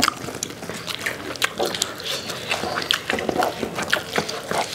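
Close-up eating sounds: chewing and lip-smacking on chicken chargha and biryani, a quick irregular run of wet mouth clicks.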